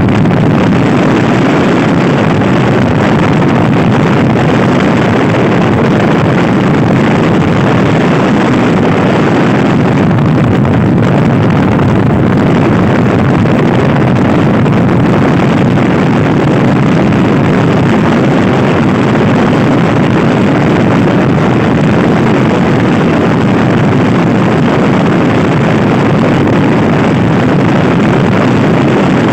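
Loud, steady wind rushing over the microphone of a scooter ridden at speed, drowning out most other sound.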